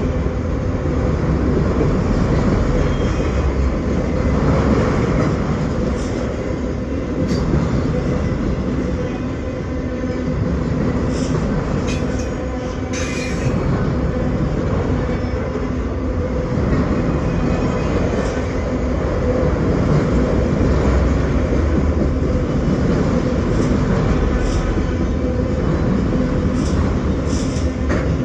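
Freight train of autorack cars rolling past at close range: a steady rumble of steel wheels on the rails, with occasional short clicks.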